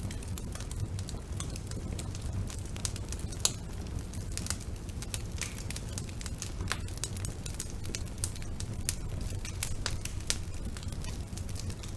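Wood fire burning in a fireplace: irregular sharp crackles and pops over a steady low rumble of the flames, one pop about three and a half seconds in louder than the rest.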